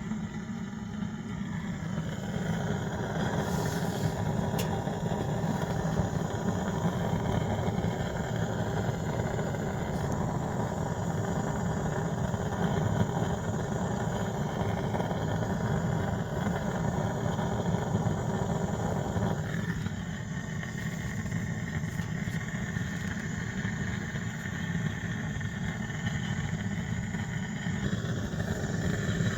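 Natural gas burner of a FÉG convector heater burning with a steady low rumble, just after startup, its flame still orange. The sound comes in abruptly at the start.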